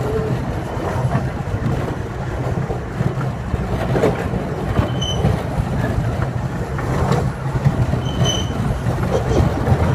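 Miniature ride-on park train running along its track, heard from aboard: a steady low rumble with the clatter of wheels on rail. Two short high squeaks come about five and eight seconds in.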